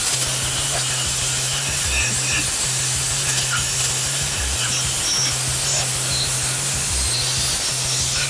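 Compressed-air blowgun blowing a long, steady hiss of air, with a low hum coming and going under it.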